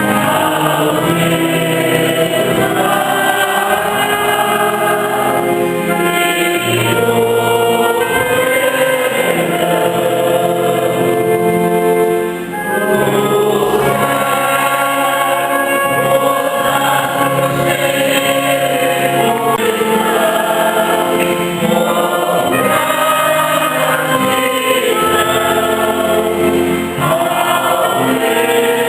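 Church choir singing a hymn with instrumental accompaniment, held sustained notes over a steady bass line.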